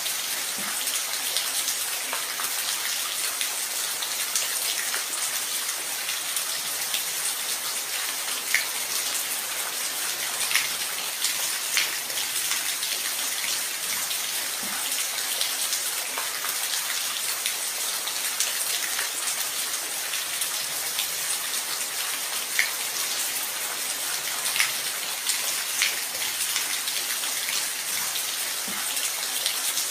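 Steady rain falling, an even hiss with scattered louder drips landing close by.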